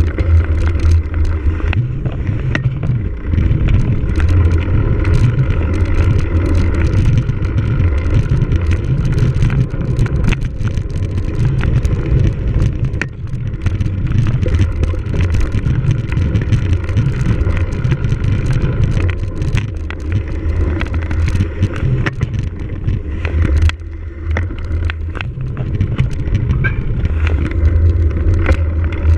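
A cyclocross bike being ridden hard over rough ground, heard from a camera on the rider or bike. Wind rumbles on the microphone throughout, with many short clicks and rattles from the bike.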